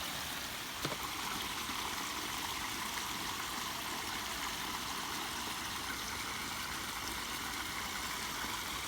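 Water of a pondless waterfall running steadily over rocks, with one faint click a little under a second in.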